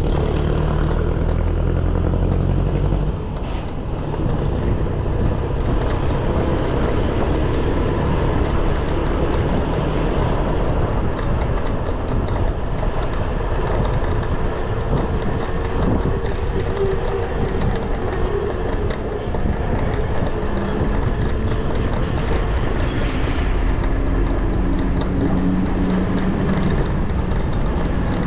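Steady city traffic and road noise heard from a moving electric bicycle, with a heavy low rumble for the first three seconds and the hum of passing vehicles later on.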